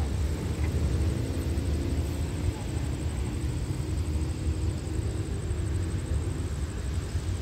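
Low, steady rumble of a diesel-hauled express train approaching from far down the line.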